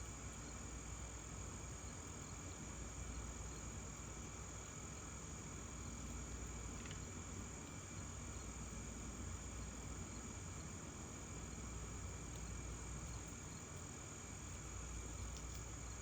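Outdoor background of insects trilling in one steady, high-pitched, unbroken drone, over a low rumble of ambient noise.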